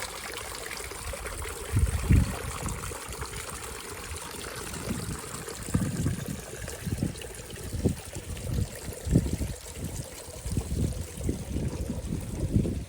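Roof runoff trickling and running down a small rocky garden stream into shallow pools, with irregular low rumbling bumps every second or so.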